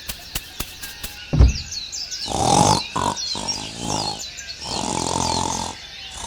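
Small birds chirping and tweeting throughout, with regular ticking in the first second and a thump just after a second in. Two drawn-out low pitched sounds follow, each a little over a second long.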